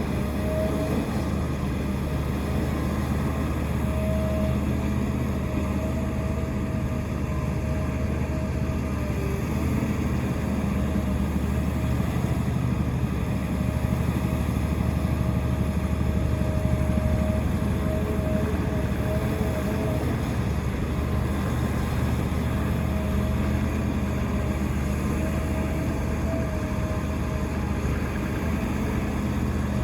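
Heavy diesel engine of a Doosan DX380 excavator running steadily while it works, with a higher whine that comes and goes over the drone. The sound swells a little in the middle.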